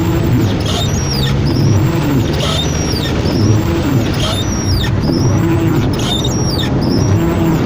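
Heavy rain with a car's engine and tyres on a wet road, steady throughout, and a short high squeak repeating about once a second.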